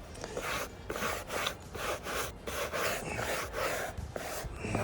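Hard-bristled hand brush scrubbing a carpet car mat in quick back-and-forth strokes, about three a second, working cleaning solution into the pile.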